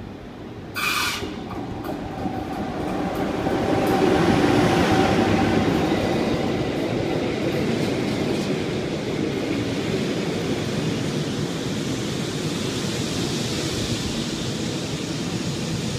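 GoldenPass Panoramic train, drawn by an electric locomotive, running into the station. There is a brief shrill sound about a second in, then the rumble grows loudest as the locomotive passes and stays steady as the carriages roll by.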